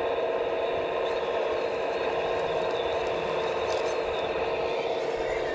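Electric motor and hydraulic pump of a scale RC construction machine running steadily, a constant hum with a strong mid-pitched tone and a light rattle.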